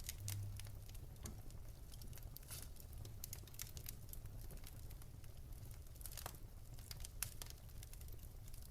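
Wood fire crackling: scattered small pops and snaps at irregular intervals over a low steady rumble.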